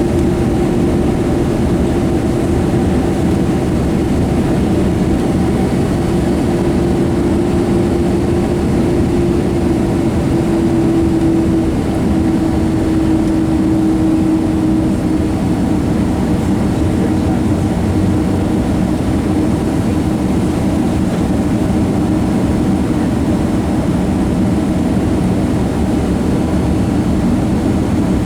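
Boeing 767-200 jet engines running steadily, a constant drone with a held tone that drops slightly in pitch about halfway through.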